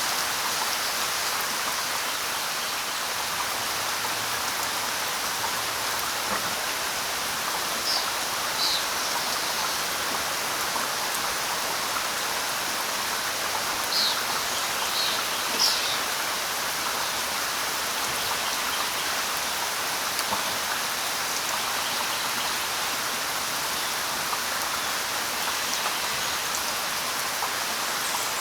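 Steady light rain pattering on leaves, with a few short high bird chirps in two small clusters, about a third and about halfway through.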